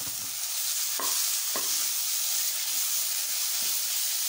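Grated radish and tomatoes sizzling in a non-stick kadhai while being stirred with a wooden spatula: a steady frying hiss, with two sharper knocks of the spatula against the pan about a second in.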